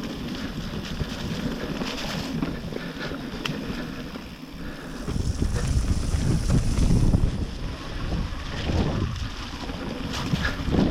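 Wind buffeting the camera microphone as a mountain bike rolls down a wet trail, with scattered small knocks and rattles from the bike. The low rushing gets louder about five seconds in.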